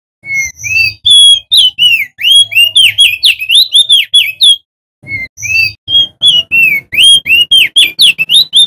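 Male crested darkeye (opior jambul) singing loudly: two long bursts of rapid whistled notes that slide up and down, the second starting about five seconds in after a short pause.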